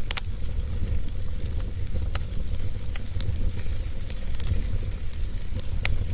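Wood fire crackling in a fireplace: a steady low rumble of flames with sharp, scattered pops, the strongest right at the start and others about two, three and six seconds in.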